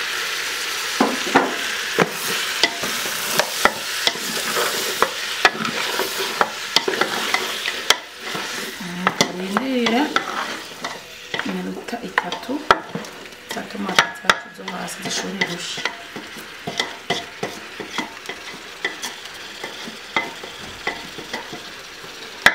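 Chopped tomatoes and beef shank with onions and peppers sizzling in an aluminium pot as a wooden spoon stirs, knocking and scraping against the pot again and again. The sizzle is loudest for the first several seconds, just after the tomatoes go in, then drops to a lower steady frying.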